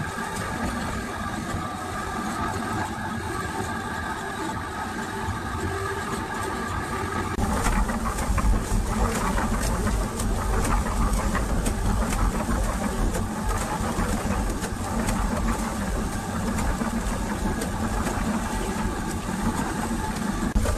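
Restored concrete mixer running steadily, then from about seven seconds in a louder, deeper rumble with rattling as the drum turns.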